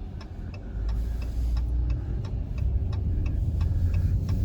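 Turn-signal indicator of a 2020 Dodge Charger SXT ticking steadily inside the cabin, about three clicks a second, over the low hum of the car's engine and road.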